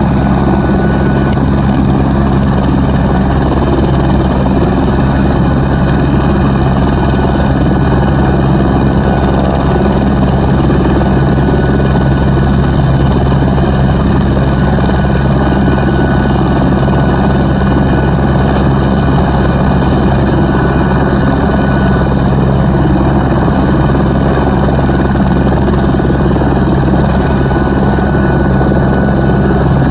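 Airbus H125 helicopter with its single turboshaft engine and rotor running steadily, with a thin high whine held over a heavy low rotor sound that does not rise or fall.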